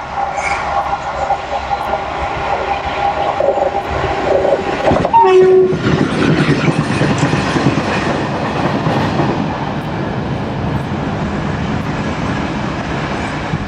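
Indian Railways locomotive-hauled train sounding a long horn as it approaches, then passing close at speed, its wheels clattering over the rail joints.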